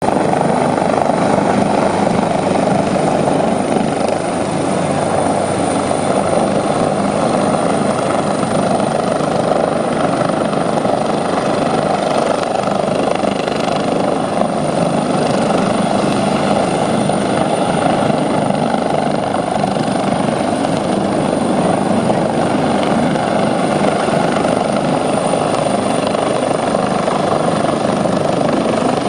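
Helicopter running steadily and loud, its rotor and engine noise unbroken, with a thin high whine above it.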